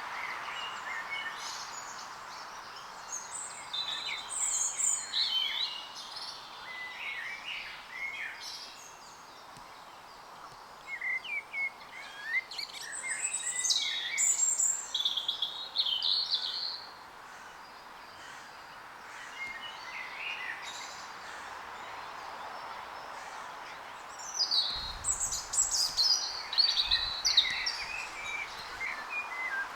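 Songbirds singing, quick varied chirps and trills in three spells, over a steady background hiss.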